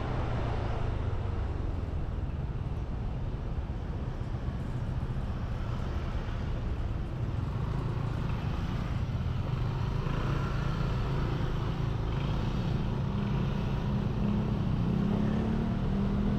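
Motorbike engine running while riding, with steady wind and road noise; the engine note rises slightly near the end.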